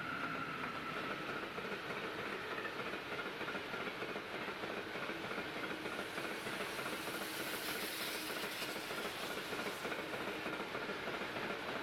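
Train passing on the track: a steady rolling noise of wheels on rails, with a faint, steady high whine running through it.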